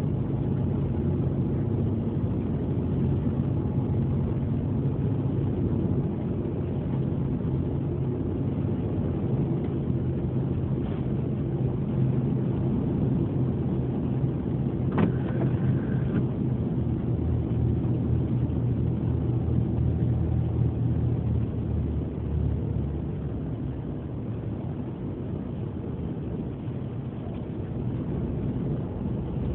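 Ferry's engines running with a steady low drone, under wind noise on the microphone. A single sharp knock sounds about halfway through.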